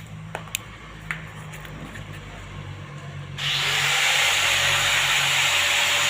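A few sharp clicks and knocks of tools in the first second or so, over a low steady hum; about three and a half seconds in, a loud steady hiss starts abruptly and keeps going.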